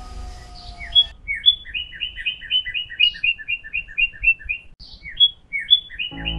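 A common kingfisher calling a fast series of short, shrill chirps, about four or five a second, with a brief break before the calls resume. Background music is fading out at the start and comes back in near the end.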